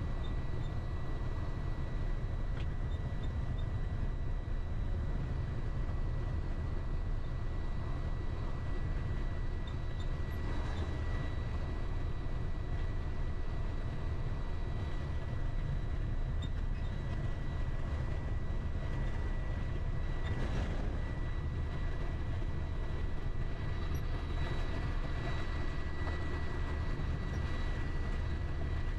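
Delivery truck cab on the move: a steady low rumble of engine and road noise, with a thin, even high whine over it.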